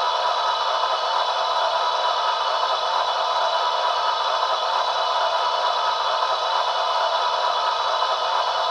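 Steady locomotive sound played by an HO-scale GE AC6000 model's Paragon2 sound decoder through its tiny speaker: a thin, bass-less mechanical running sound that holds the same level throughout.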